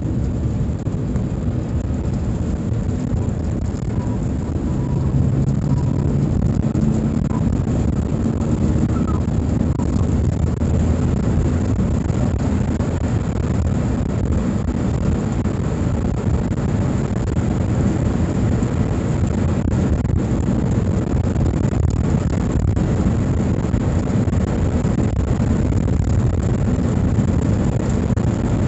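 Suzuki Super Carry mini truck driving along, its engine and road noise heard as a steady low rumble from inside the cab with the windows closed.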